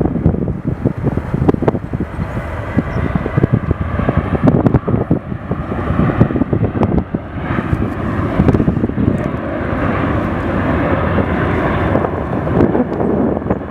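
Boeing 737-600's twin CFM56-7B jet engines at takeoff thrust: a loud, deep rumble full of crackle that steadies somewhat in the second half.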